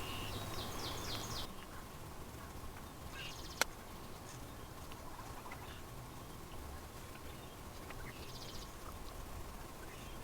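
Outdoor ambience with faint bird calls in short high chirping bursts: near the start, about three seconds in and again near the end, over a steady faint hiss and a thin steady hum. One sharp click about three and a half seconds in.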